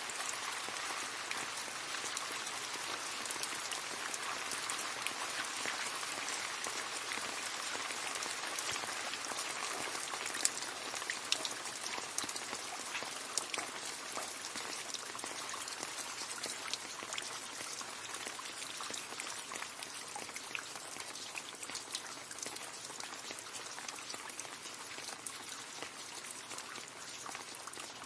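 Rain falling into a puddle: a steady dense patter of drops splashing on water, with separate louder drops standing out now and then.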